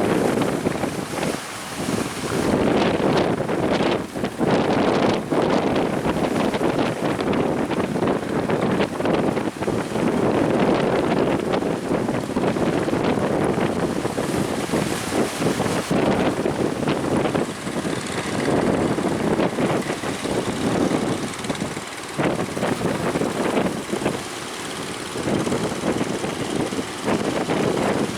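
A boat engine running steadily under way, with strong wind buffeting the microphone in irregular gusts.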